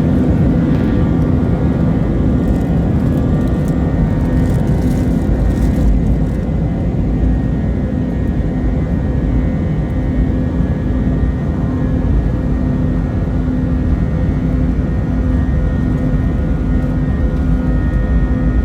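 Jet airliner engines running: a loud, steady drone with a few steady hums over it.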